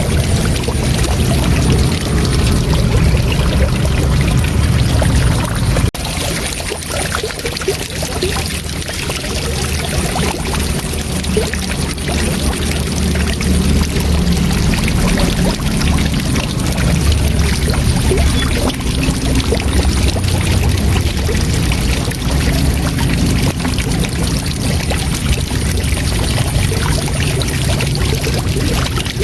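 Waterfall: water rushing steadily, with a deep low rumble under the hiss. The level dips briefly about six seconds in.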